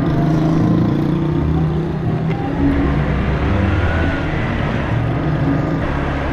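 Small motorcycle engine running while being ridden, its pitch shifting up and down with the throttle, under steady road and wind noise.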